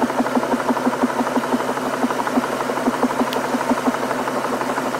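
Inside a car in heavy rain: a steady hiss of rain on the car with a fast, regular throbbing of about five or six beats a second underneath.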